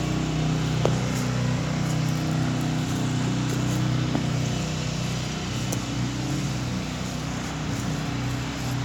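Portable generator engine running at a steady pitch, a constant mechanical hum.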